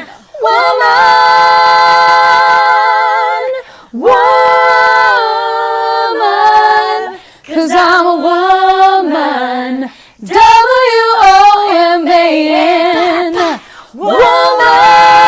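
A female trio singing a cappella in three-part harmony. They hold long notes with vibrato across five sung phrases of about three seconds each, with brief breaths between them.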